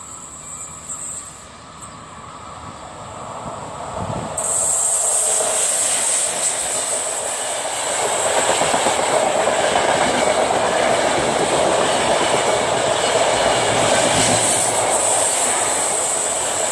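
Passenger train hauled by an FS Class E.444 electric locomotive passing through a station. It is distant at first, then suddenly loud about four seconds in, and louder still from about eight seconds in as the sleeper coaches roll past on the rails with a steady high squeal.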